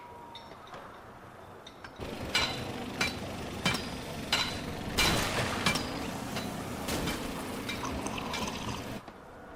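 Liquid trickling and dripping. A faint bed for about two seconds, then louder, with sharp drip-like clicks landing less than a second apart.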